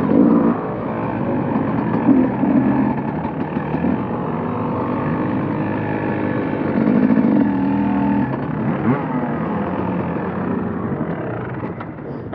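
KTM motocross bike's engine revving hard, its pitch rising and falling repeatedly as the throttle is worked, easing off near the end.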